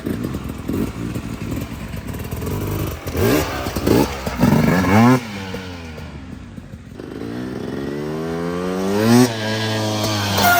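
Dirt bike engine revving hard on a trail, its pitch climbing and dropping with the throttle. A short burst of revs cuts off about five seconds in, then a long steady climb peaks near the nine-second mark before easing off, with some clatter over rough ground.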